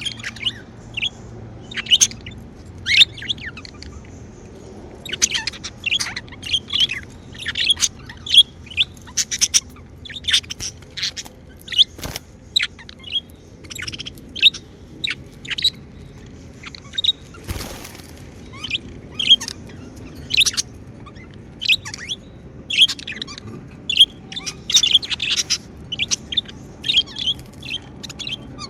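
Pet budgerigars chirping: many short, sharp chirps in irregular flurries throughout, the lively chatter of contented budgies.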